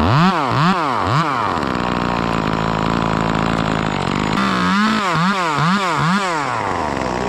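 Two-stroke chainsaw idling, its throttle blipped in quick revs: three near the start and four more in a row past the middle, each rising and falling back to idle.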